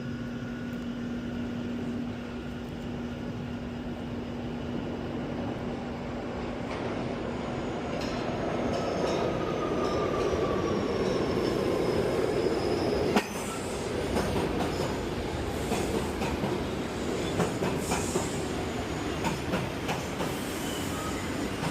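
New York City subway train running: a steady hum, then a rumble that builds toward the middle with a faint high squeal gliding down in pitch, and irregular clanks and clicks from the wheels in the second half.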